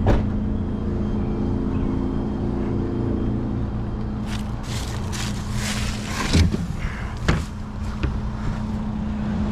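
A vehicle engine running steadily as it drives, heard from inside the cabin, with a few sharp knocks and a short stretch of rushing noise about halfway through.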